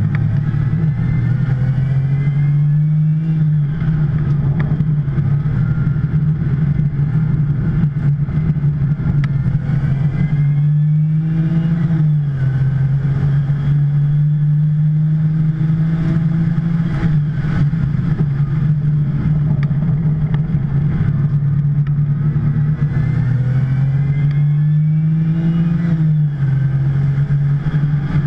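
2010 Porsche 911 Turbo's twin-turbo flat-six running hard on track, its pitch climbing slowly through each gear and dropping sharply at the gear changes, about three times.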